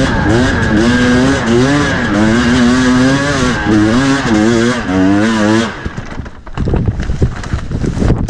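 Two-stroke dirt bike engine revving, its pitch climbing and falling repeatedly under the throttle. About two-thirds of the way through, the engine note drops away, leaving irregular knocks and rattles.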